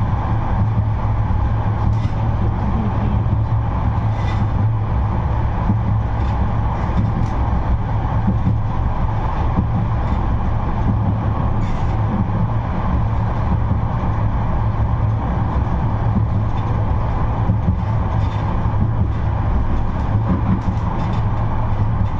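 A 71-628-02 tram running between stops, heard from inside the car: a steady low hum and running noise, with a few brief sharp clicks.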